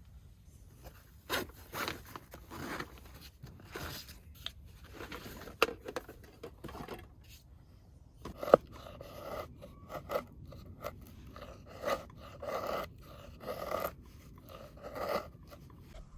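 Irregular handling noises of rustling and scraping, with a few sharp clicks; the loudest click comes about halfway through.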